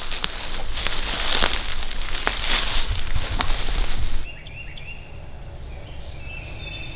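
Footsteps crunching and rustling through dry forest leaves, then an abrupt change about four seconds in to quiet woods with small birds chirping and whistling.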